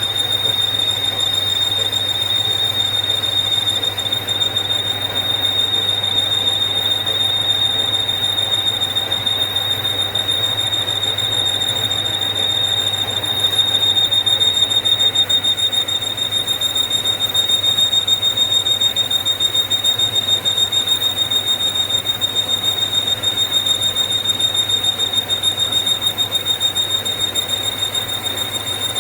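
Machine tool running while it machines a metal turbine shaft: a steady, high-pitched whine over a low hum and a rough, fluttering noise, unchanged throughout.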